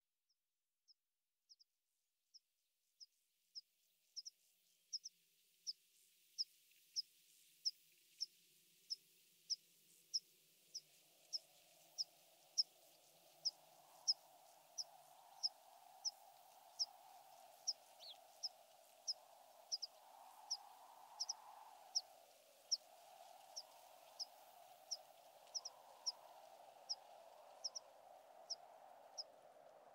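A small bird repeats one short, high chirp over and over at a very even pace, about three calls every two seconds. From about a third of the way in, steady wind noise fades up underneath.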